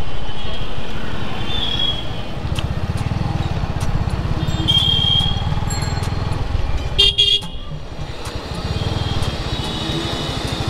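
Road traffic heard from a moving motorcycle: a steady low engine and road rumble, with vehicle horns honking several times. The loudest honk comes about seven seconds in.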